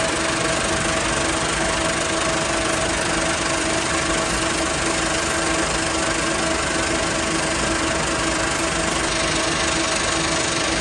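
Sawdust pellet plant machinery running steadily: a loud, even mechanical noise with a constant low hum and no pauses.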